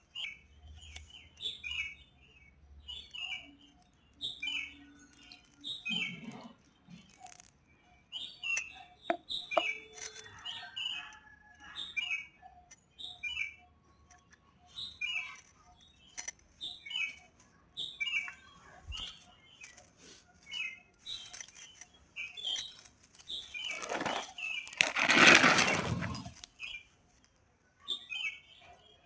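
A bird chirping over and over in short, evenly repeated calls. Near the end a loud whooshing swell of noise builds up and fades away over a few seconds.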